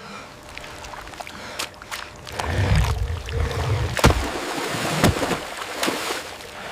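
Water splashing and churning, loudest through the middle, with sharp knocks about four and five seconds in.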